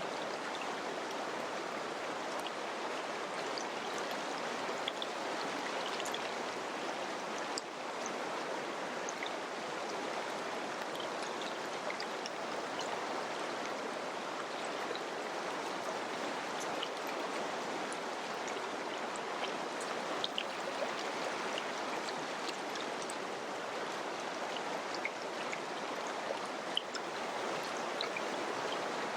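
River water flowing steadily, with small splashes and drips now and then.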